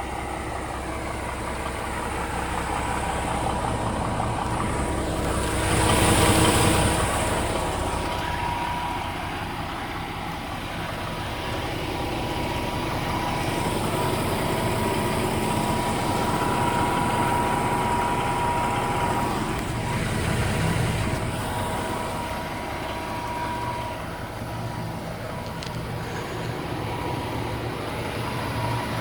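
DAF CF 480 tractor unit's six-cylinder diesel engine idling steadily, with a short, louder hiss about six seconds in.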